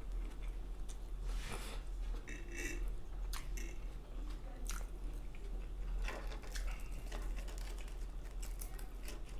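Close-miked chewing and mouth sounds of a person eating, with irregular wet smacks and clicks.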